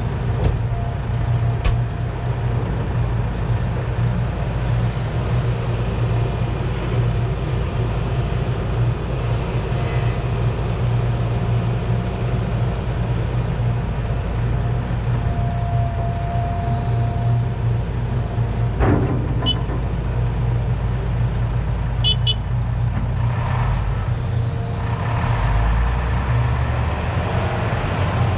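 Volvo A25G articulated haul truck's diesel engine running steadily, heard from inside the cab. There is a sharp click about two-thirds of the way in, a few short high beeps soon after, and the engine note changes near the end.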